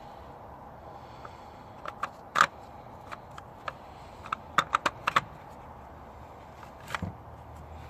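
Scattered light clicks and clinks of small hard objects being handled, the loudest about two and a half seconds in and a quick run of five around five seconds in, over a steady low hum.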